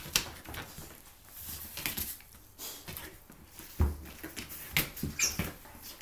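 A chow chow and a Samoyed play-fighting on a floor: paws scrabbling and pattering, with scattered knocks and thumps. There is a short high squeak about five seconds in.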